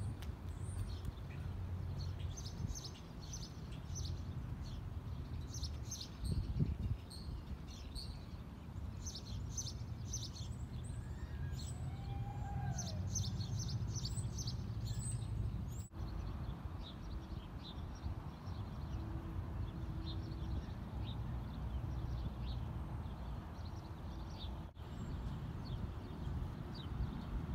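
Small birds chirping in quick short notes, busiest in the first half, over a steady low rumble of outdoor noise.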